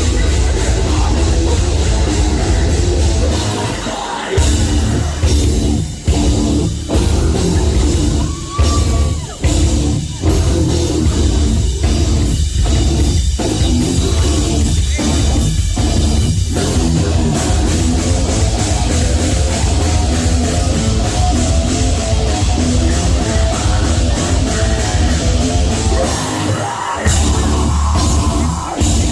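Heavy metal band playing live: distorted guitars, bass and drum kit. From about four seconds in to about sixteen, the band plays stop-start hits with short gaps between them, then settles into continuous riffing.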